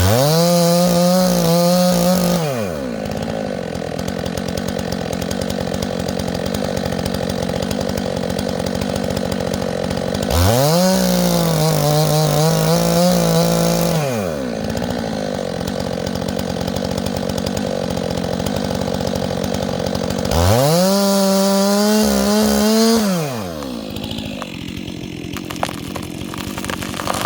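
Chainsaw engine idling and revved up three times, about ten seconds apart: each time the pitch climbs quickly, holds for two to three seconds, then falls back to idle. Near the end the engine sound drops lower, with a few clicks.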